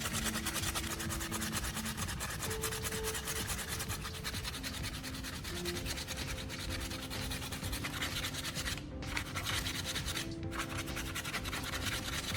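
Sandpaper rubbing in quick, repeated strokes over a hardened hot-glue repair on a plastic fairing, smoothing it flush, with soft background music.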